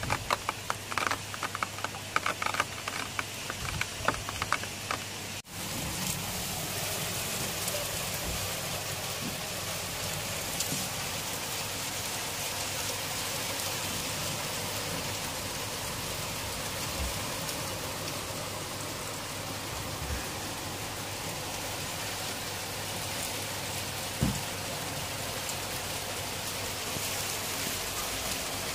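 Heavy rain falling, an even hiss. For the first five seconds or so, many sharp drops tap close by on a roof window and its frame. Then the tapping stops abruptly and only the steady hiss of rain on the street remains, with one short knock late on.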